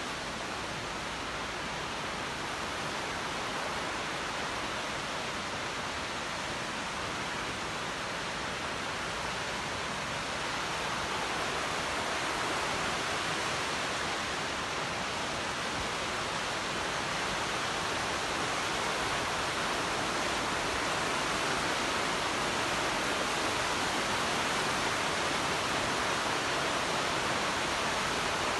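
Steady rushing of running water, growing slightly louder about a third of the way through.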